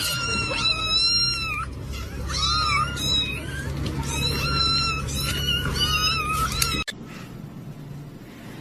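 A cat meowing over and over in high calls, some short and some drawn out, until the sound cuts off suddenly near the end.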